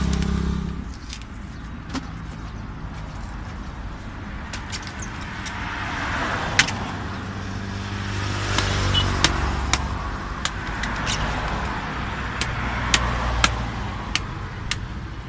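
Sharp knocks of a knife chopping open palmyra palm fruits, a handful of strikes spread out, the loudest about halfway through. Under them a motor vehicle runs steadily, louder around the middle.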